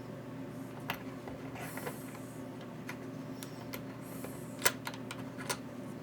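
Several sharp metal taps and clicks at irregular spacing, the loudest a little before the end, over a low steady hum: a hammer lightly tapping a punch to seat bullet contacts into an EC5 battery connector.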